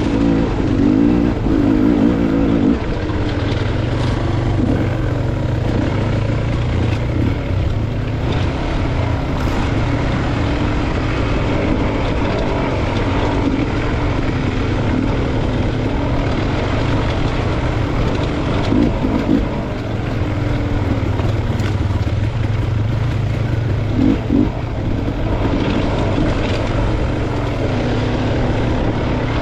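Off-road dirt-bike engine running continuously under a varying throttle, its pitch rising and falling as it rides a trail, with a few short knocks along the way.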